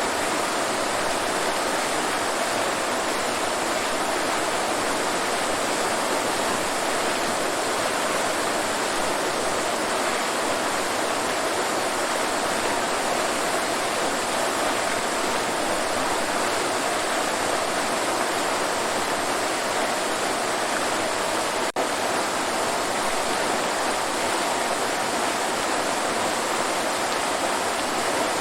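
Waterfall: a steady, even rush of falling water, with a split-second dropout about three-quarters of the way through.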